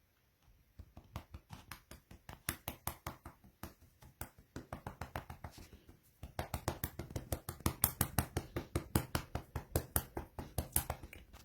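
A hand patting and slapping a cat's body in a quick, steady rhythm, several pats a second, starting about a second in and getting louder about halfway through.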